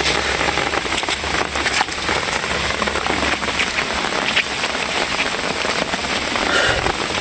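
Steady rain falling, with the sharp ticks of individual drops hitting close by.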